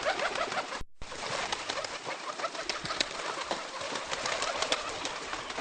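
Pigeons cooing: short, wavering low coos over a steady background hiss, cut briefly just under a second in, then fainter coos among many small clicks and ticks.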